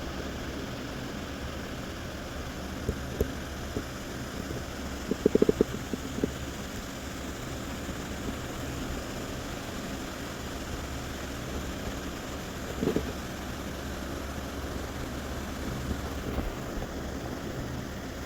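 Gusty wind buffeting the microphone: a steady low rumble, with a quick cluster of knocks about a third of the way in and a single short knock a little past two-thirds.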